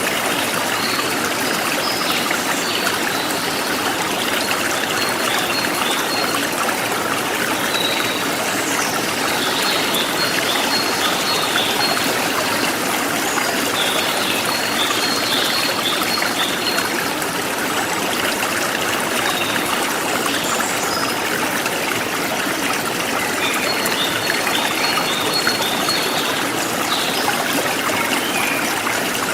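Forest stream flowing steadily over rocks. Small birds chirp over it in short runs of quick repeated high notes, several times.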